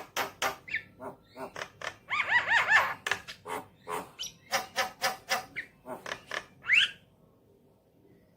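Javan myna calling: a rapid series of sharp clicks and harsh chattering notes, with a quick run of arching whistled notes about two seconds in and a short rising whistle near the end, after which it stops.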